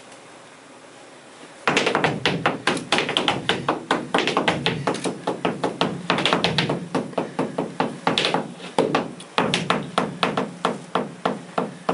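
Flamenco footwork (zapateado): rapid heel-and-toe stamps in flamenco shoes, starting suddenly about two seconds in and running in fast flurries with a couple of short breaks.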